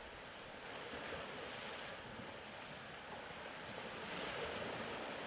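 Soft ocean waves washing in, swelling twice.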